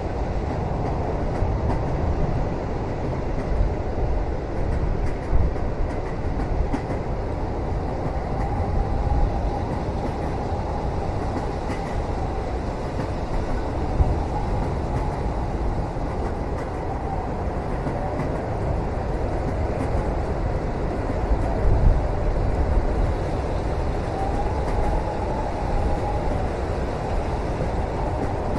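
Passenger train rolling along, heard from inside the carriage: a steady low rumble of wheels on track with occasional knocks, and a faint wavering whine that rises and fades now and then.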